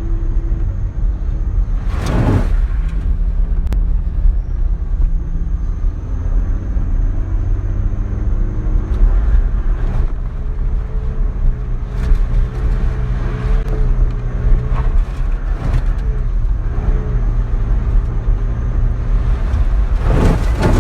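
A motor vehicle's engine running steadily, its note shifting slightly in pitch, with a brief whoosh about two seconds in and another near the end.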